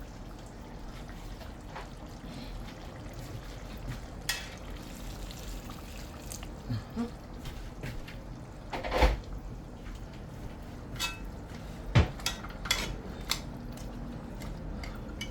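Cooking pot and utensils knocking and clinking now and then, with some liquid sounds, as water goes into a pot of chicken feet on the stove. The sharpest knocks come about nine and twelve seconds in, over a steady low hum.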